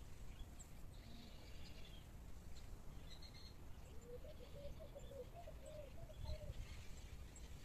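Faint outdoor birdsong: short high chirps and twitters come a few times, and a lower run of warbled notes sounds through the middle, over a steady low rumble.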